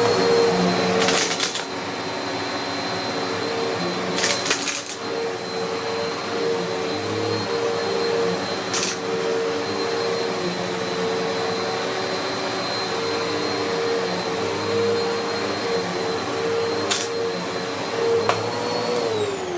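Eureka Altima upright vacuum cleaner running at a steady motor whine, with a few sharp clicks of debris in the head. It is trying and failing to pull up a heavy bit of debris. Near the end the motor is switched off and its whine falls as it spins down.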